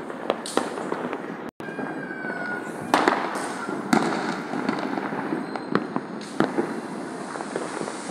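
Many firecrackers and fireworks going off all around at once, a continuous crackle of pops and bangs, with louder sharp bangs about three and four seconds in. A short whistle, dropping slightly in pitch, comes just before the first big bang.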